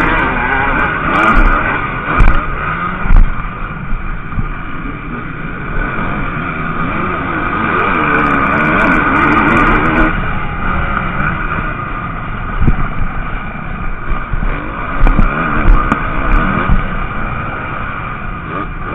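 Motocross bikes racing, their engines revving up and down. Several sharp low thumps come in the first few seconds.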